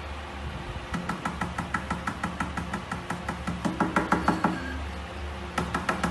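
A quick run of light, ringing taps, about five a second, lasting a few seconds, then a short second run near the end.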